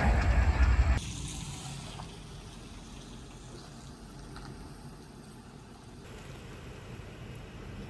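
A vehicle rumbling past at close range, cut off about a second in, then a much quieter, steady trickle of running water.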